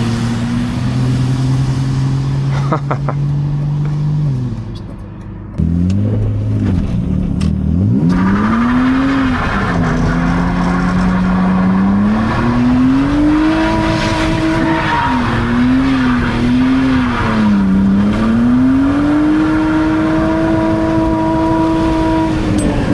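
BMW E46 328Ci's 2.8-litre inline-six revving hard during a drift, its pitch rising and falling: a brief drop in revs about five seconds in, then the revs climb and are held high through the slide over a steady hiss, falling away near the end.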